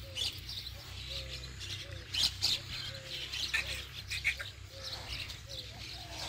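Birds calling: one repeats a short, slightly falling note about twice a second while other birds chirp higher over it. A steady low rumble lies underneath, and a few sharp clicks come about two to three and a half seconds in.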